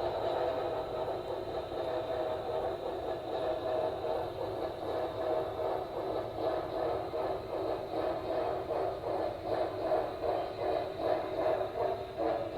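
HO-scale Norfolk and Western Y6b model steam locomotive's onboard sound decoder playing steam chuffing and running sounds through its small speaker as the locomotive moves slowly. The chuffs pulse at about two a second.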